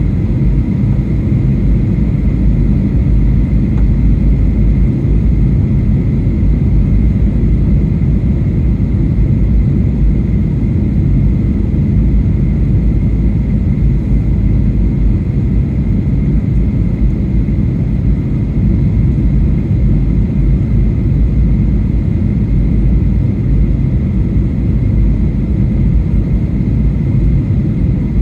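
Cabin noise inside a Boeing 737-800 airliner in flight: the steady low rumble of its CFM56 turbofan engines and airflow past the fuselage, with a thin constant whine above it.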